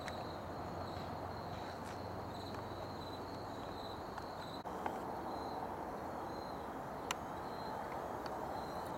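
Crickets chirping, a high pulsing trill repeating about twice a second, over a steady background hiss.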